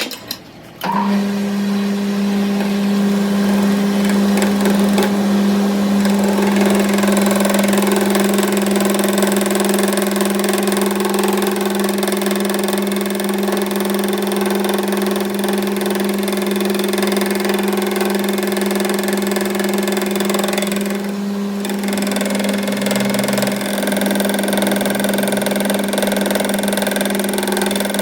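A machine motor starts about a second in and runs steadily with a constant hum.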